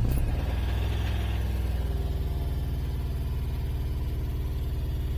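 Acura Integra GSR four-cylinder engine idling steadily just after starting, a little louder in the first second before settling. The engine has blown piston rings, which the owner says leave it smoking heavily and running rich.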